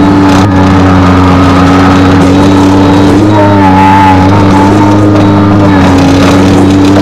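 Skid steer engine running steadily at a constant speed. About halfway through, a wavering higher tone sounds over it briefly.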